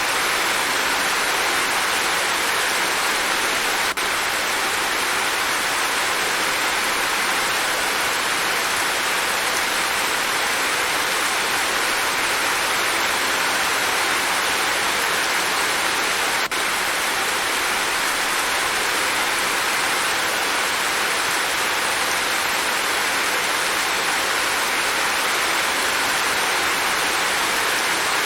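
Rain falling steadily: an even, unbroken hiss that neither swells nor fades.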